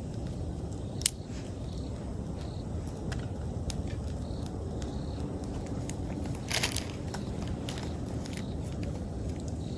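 Wood campfire crackling: scattered snaps and pops, a loud pop about a second in and a quick cluster of pops around six and a half seconds, over a steady low rumble. A chirping autumn insect repeats faintly in the background during the first half.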